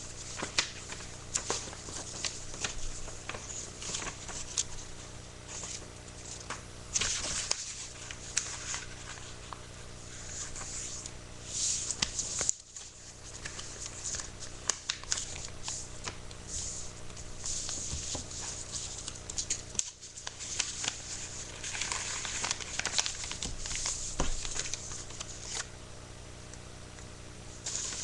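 A sheet of paper being folded and creased by hand: irregular rustling and crinkling with sharp crackles, over a steady low hum.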